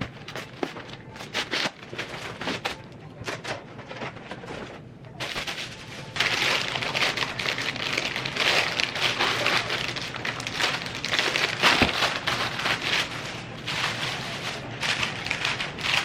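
Crinkling, rustling and clicking handling noise, like plastic packaging and bags being handled. It is sparse at first and becomes louder and denser from about six seconds in.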